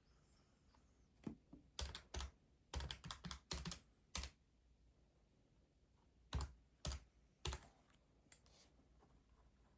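Keys being tapped in short bursts: about ten quick strokes over a few seconds, then a pause and three more strokes, faint against a quiet room.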